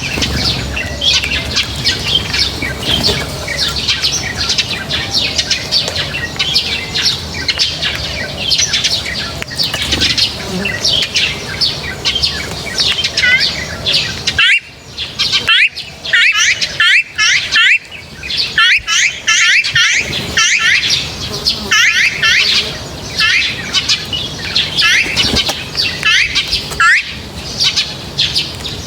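A flock of small birds chirping and chattering without a break, many quick high calls overlapping.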